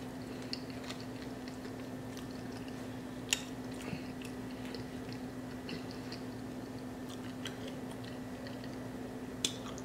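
Quiet, close-miked chewing of a forkful of loaded seafood baked potato, with soft wet mouth sounds. A couple of sharp clicks come about three seconds in and near the end, over a steady low hum.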